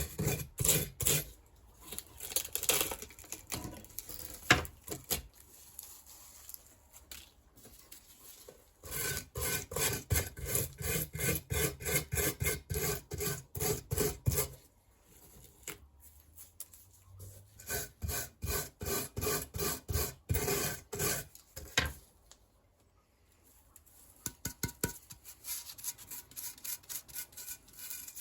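Wire brush scrubbing the corroded aluminium engine case of a BMW R1200GS in quick back-and-forth strokes, about three or four a second, in several runs of a few seconds with pauses between.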